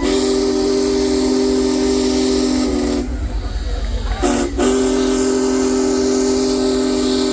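Big Boy 4014 steam locomotive's whistle blowing two long chord blasts. The first lasts about three seconds; the second follows a brief toot about four seconds in and runs nearly to the end. Steam hisses underneath.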